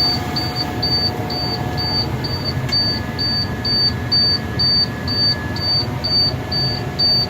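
Bucket truck's engine idling, with a short high-pitched warning beep repeating steadily about twice a second.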